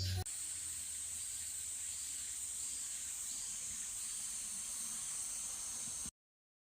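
A steady high-pitched hiss that cuts off abruptly about six seconds in.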